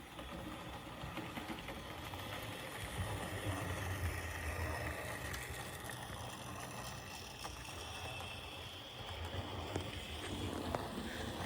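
Model train locomotive running along its track: a steady electric-motor hum and whine with light clicks from the wheels on the rails, getting louder around the middle and again near the end as it passes closer.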